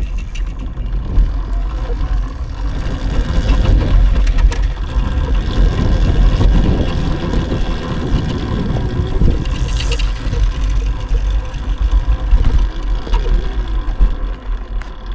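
Riding noise of an electric dirt bike on a dirt trail: heavy, uneven wind rumble on the microphone over tyre noise, with a faint steady whine from the electric motor.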